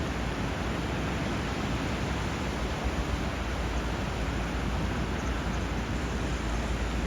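Steady rush of flowing water, an even hiss with no distinct splashes or calls.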